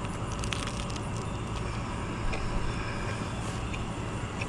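Steady low mechanical hum of an air conditioning unit running outside, with a few faint clicks over it.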